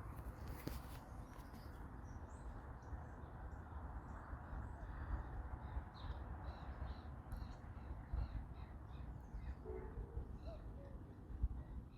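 Wild birds calling outdoors: a run of many short, high chirping notes that starts about two seconds in and keeps going, over a low steady background rumble.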